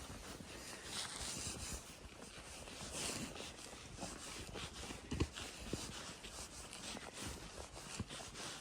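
Horse walking through fresh snow: soft, muffled hoof steps crunching in the snow, with a couple of firmer thuds about five seconds in.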